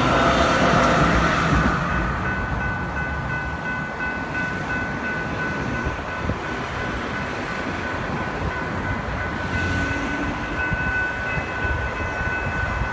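The rear Siemens SC-44 locomotive of a Brightline passenger train rumbles past a grade crossing, fading within about two seconds as the train clears. The crossing's warning bells ring steadily throughout.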